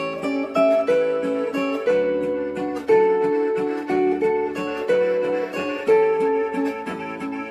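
Zither playing a plucked melody over a regular accompaniment of lower plucked chord notes, each note ringing and fading.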